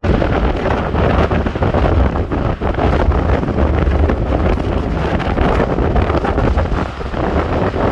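Gale-force wind, force 8 to 9, blasting across the microphone: loud, continuous rumbling wind noise with sharp crackles throughout.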